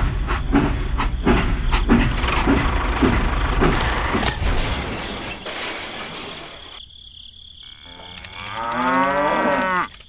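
A rumbling, clattering noise with regular knocks, fading out about halfway through, then near the end one long cow moo that rises and falls in pitch.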